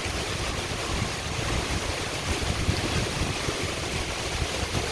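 Heavy thunderstorm rain pouring down with strong wind gusts, a steady rushing hiss with wind buffeting the microphone as an uneven low rumble.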